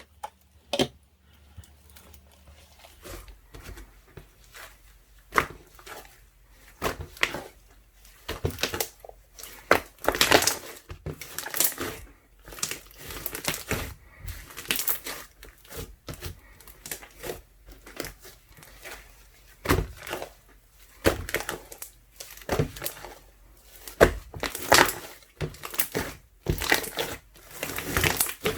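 Slime made from ice slime mixed with soothing gel being squeezed and worked by hand, giving irregular crackling, squelching pops and clicks. The pops come sparsely at first and grow denser and louder after about eight seconds.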